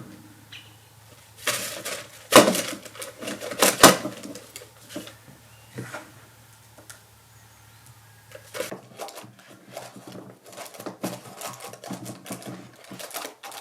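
A spoon scraping and knocking against a bowl while scooping a thick suet-and-seed mixture into a mold. A few sharp knocks come in the first four seconds, then lighter, quicker clicking and scraping from about nine seconds in.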